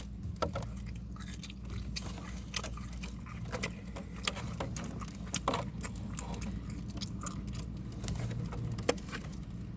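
A person chewing a bite of chicken salad croissant sandwich: irregular soft mouth clicks and smacks, over a steady low hum.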